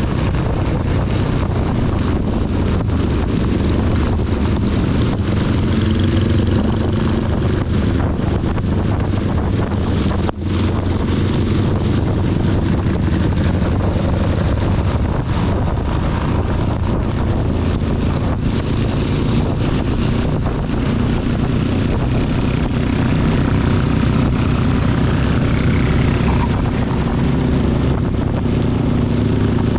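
Honda CB250 motorcycle engine running steadily while riding, under a dense hiss of heavy rain and wind on the camera, with a brief drop in sound about ten seconds in.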